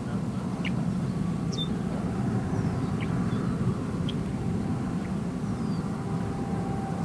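Hail shaft roar: a constant, thunder-like rumble from the hail core of a distant supercell, steady and unbroken, with a few faint high chirps over it.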